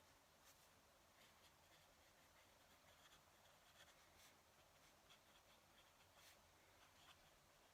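Very faint scratching of a fountain pen nib on paper in short, irregular strokes as someone writes.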